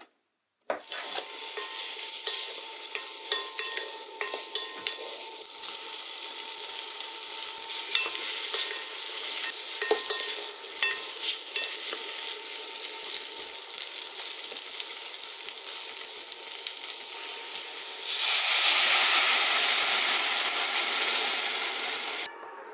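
Sliced onion and shiitake mushrooms sizzling as they fry in a small pot, with a wooden spoon stirring and clicking against the pot. About eighteen seconds in, water is poured into the pot: a louder, steady rush of pouring that cuts off near the end.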